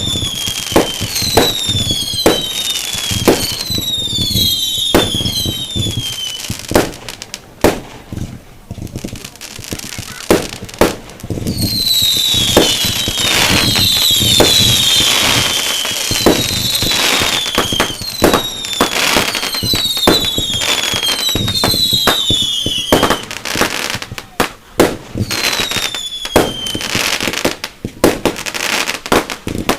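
Fireworks display going off: a rapid run of sharp bangs mixed with many short whistling shells whose whistles fall in pitch. The barrage is thickest a little before halfway through.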